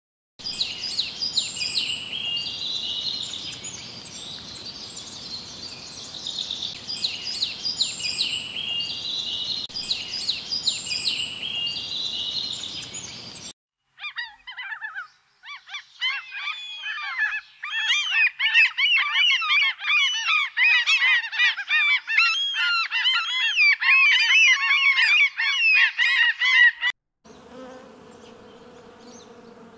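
High, quickly repeated bird chirps go on for about the first half. After a short break comes a flock of gulls calling, many overlapping cries and the loudest part. Near the end the gulls stop suddenly and a honeybee buzzes with a low, even hum.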